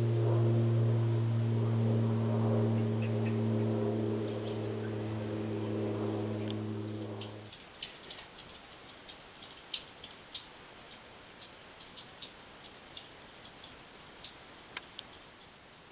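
A steady low mechanical hum stops suddenly about halfway through. It leaves a quieter background with scattered sharp ticks, one or two a second.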